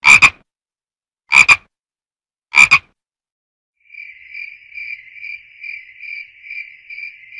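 Frog calling: three short, double-noted croaks about 1.3 seconds apart, then a steady, high, pulsing call of about two pulses a second that lasts nearly four seconds.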